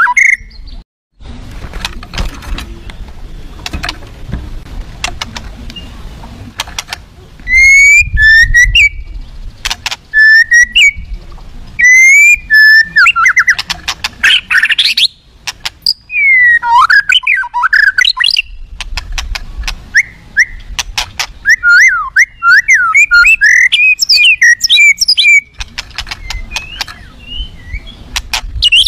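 Murai batu (white-rumped shama) singing loudly in bursts of rapid, varied whistled phrases full of mimicked notes (isian), with sharp clicking notes between phrases and a low rumble underneath.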